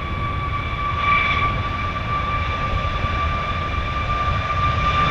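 Jet airliner engines running: a steady high whine over a low rumble.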